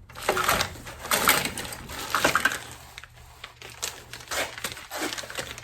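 Rustling and irregular light clicks of small parts and tools being handled and rummaged through.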